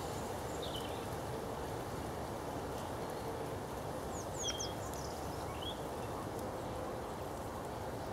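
Outdoor ambience: a steady background hiss with a few short, high bird chirps, several in a quick cluster about four seconds in.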